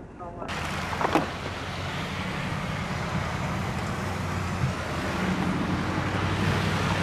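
Roadside traffic noise: a steady low engine hum under a hiss of passing vehicles, cutting in abruptly about half a second in, with a short knock about a second in.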